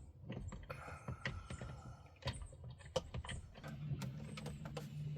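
Irregular light clicks and knocks of tools and parts being handled while working in a van's engine bay. A low steady hum comes in past the middle.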